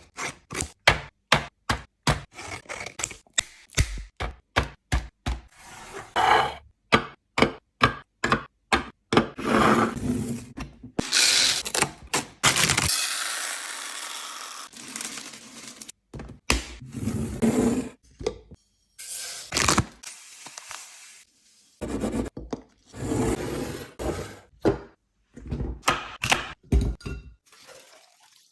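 Items and containers being placed into a refrigerator: a quick run of sharp taps and knocks, a few seconds of steady rustling hiss around the middle, then more knocks and scrapes.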